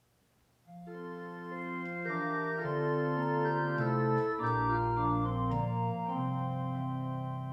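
Organ playing a hymn introduction, starting just under a second in: held chords that change every second or so, the notes sustained without dying away.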